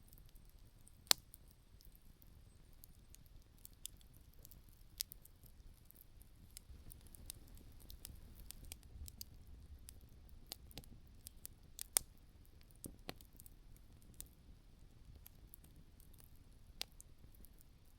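Wood campfire burned down to embers, ticking and crackling with scattered sharp pops of burning wood, the loudest about a second in and again about twelve seconds in.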